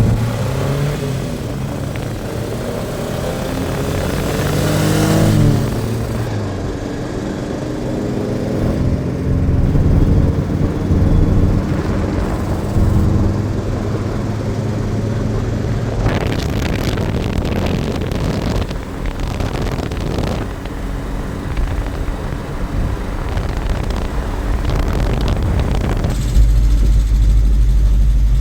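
Vehicle engine running, revving up in pitch about four to five seconds in and surging a few more times, with a heavy low rumble coming in near the end.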